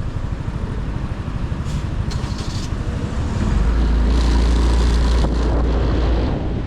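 Motorcycle engine running on the move, a throbbing low note, growing louder for about three seconds from halfway through with more wind and road hiss, then easing off near the end.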